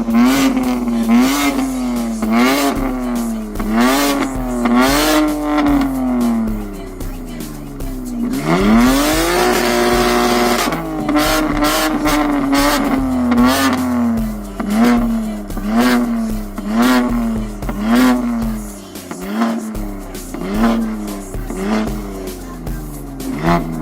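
BMW M3 exhaust as the engine is revved in short, regular blips about once a second. One longer rev climbs and holds at a higher pitch around the middle, then the quick blips resume.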